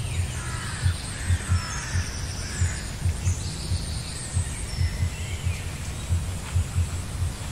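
Small birds chirping and calling, with short rising and falling calls, over a steady run of low, soft thumps, about two a second and often in pairs.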